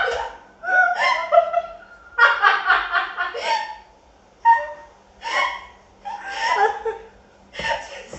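Women laughing hard in about five bouts separated by short pauses.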